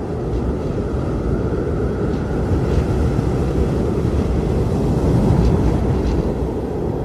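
Strong blizzard wind blowing in a steady low rush, with a faint howling tone above it, swelling slightly in the middle.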